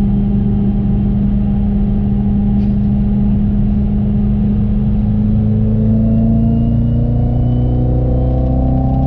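Supercharged 6.2-litre V8 of a 2019 Corvette C7 Z06 running at a steady cruise, then its pitch slowly rising from about five seconds in as the car gently picks up speed.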